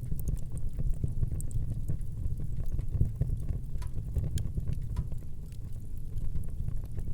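Wood fire burning in a fireplace: a low steady rumble of the flames with frequent small crackles and pops scattered throughout.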